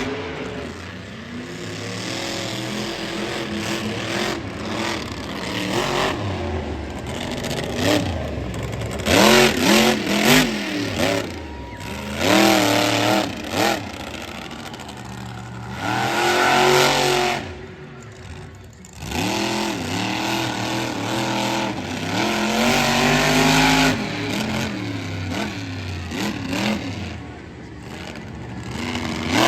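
Monster truck engine revving up and easing off again and again, the pitch rising and falling with each throttle stab. The loudest surges come about nine to eleven seconds in and around sixteen seconds, with a brief lull just before eighteen seconds.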